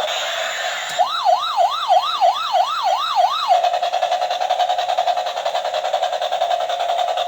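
A SWAT helicopter toy's electronic police-siren sound effect. A click about a second in starts a fast up-and-down wail, about three sweeps a second; after a few seconds it switches to a steady buzzing tone.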